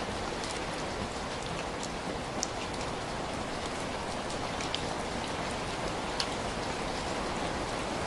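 Steady rain falling, with scattered small sharp ticks of single drops striking.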